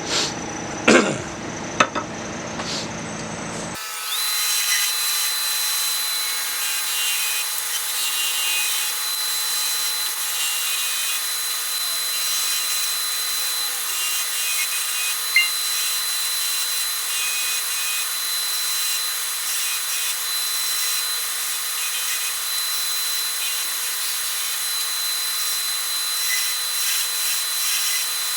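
Wood lathe turning a long poplar spindle, a chisel cutting the spinning wood with a steady scraping hiss as it is worked back and forth. A few knocks come in the first few seconds before the steady cutting sets in.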